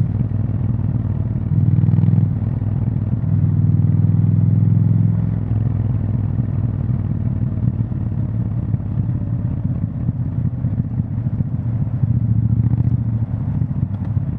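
Triumph Scrambler 1200 XE's 1200 cc parallel-twin engine through its exhaust, revved up briefly twice in the first five seconds, the second rev climbing in pitch, then settling back to lower, steady running.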